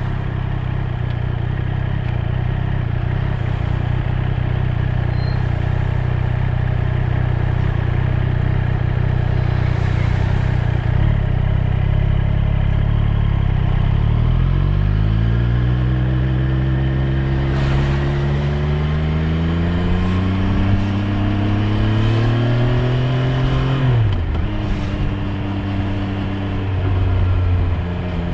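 Triumph Street Triple 765 R's inline three-cylinder engine running steadily at low revs, then pulling away with the pitch rising about 14 seconds in. It climbs through a gear change about 20 seconds in, the revs drop sharply off the throttle near 24 seconds, and it settles back to a steady note.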